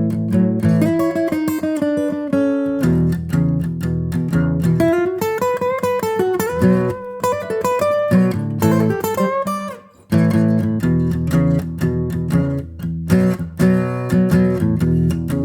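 Acoustic guitar music, plucked and strummed notes over a bass line, with a brief pause about ten seconds in before it picks up again.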